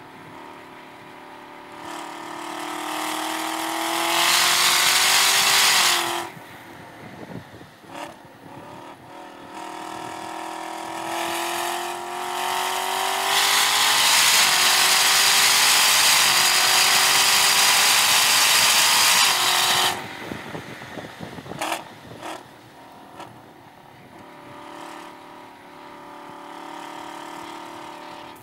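Chevrolet Camaro ZL1 1LE's supercharged V8 pulling hard, its pitch rising, then cutting off abruptly as the driver lifts about six seconds in. It pulls again to its loudest full-throttle run, from about 13 to 20 seconds, and drops away sharply, with a couple of sharp clicks, to a quieter part-throttle note.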